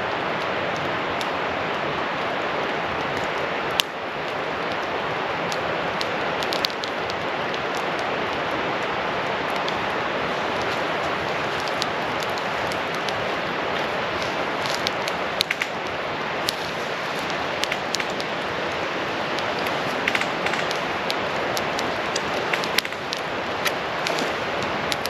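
Campfire burning: sharp crackles and pops, scattered and more frequent in the second half, over a steady rushing hiss.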